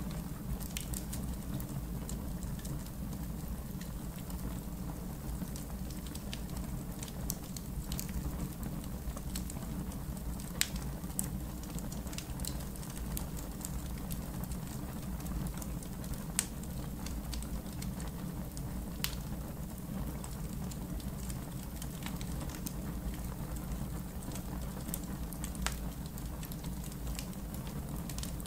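Campfire in a fire pit crackling: irregular sharp pops and snaps over a steady low rush of burning.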